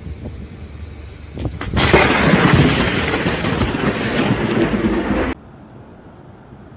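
Close lightning strike: a sharp thunder crack about a second and a half in, then a loud thunder rumble that cuts off suddenly about five seconds in, leaving a quieter steady hiss.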